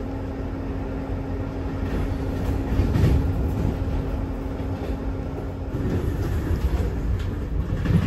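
Running noise inside a moving passenger train coach: a steady low rumble of wheels on the rails with a thin hum that stops about two-thirds of the way through, and a few faint clicks.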